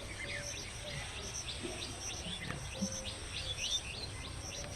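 Birds chirping: many short, high calls in quick succession, growing busier about three seconds in, over a steady outdoor background hiss.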